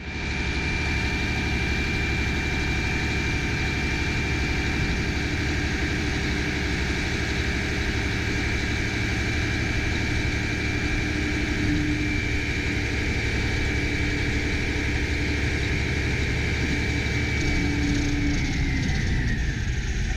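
Mack MP7 diesel engine running under load, with a steady high whine over the rumble from the hydraulic pump raising the dump body. The whine drops in pitch shortly before the end.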